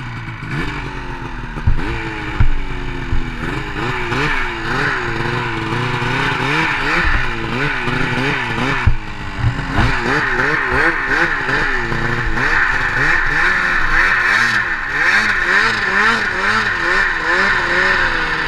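Snowmobile engine running under constantly changing throttle, its pitch rising and falling again and again, with a few knocks and clatters in the first few seconds and one about nine seconds in.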